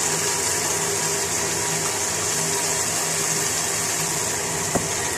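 Tomato masala with freshly added yogurt sizzling steadily in a non-stick wok over high heat, with a low steady hum underneath and one light knock near the end.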